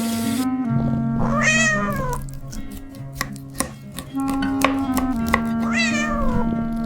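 A cat meowing twice, each meow rising then falling in pitch, over background music with held notes.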